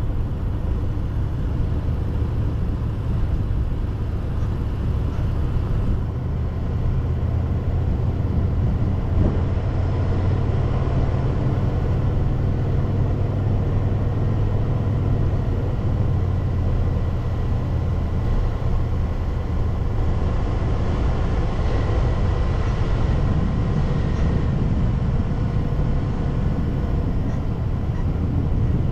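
Car driving along a road: a steady low rumble of engine and tyres, even throughout.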